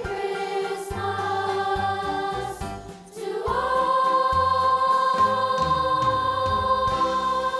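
School choir singing a Christmas song over instrumental accompaniment. About three and a half seconds in, the voices rise onto one long held note while the accompaniment moves underneath, as at the close of a song.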